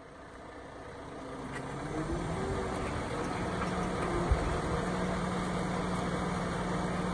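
An engine running steadily with a low hum, growing louder over the first two seconds, with a short knock about four seconds in.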